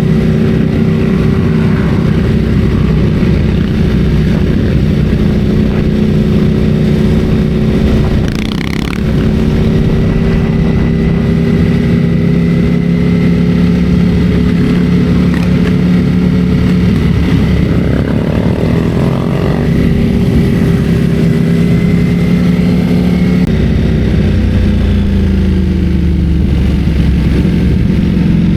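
Motorcycle engine running steadily under way, its note drifting slowly up and down. The engine briefly drops off about eight and a half seconds in, and its pitch falls again near the end.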